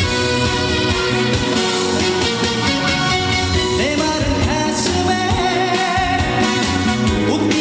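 Live trot song with a singing voice over an amplified band with electric guitar.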